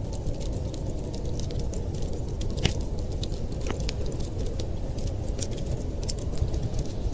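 Fireplace fire crackling: frequent sharp pops and snaps over a steady low rush, with a louder pop a little before the middle.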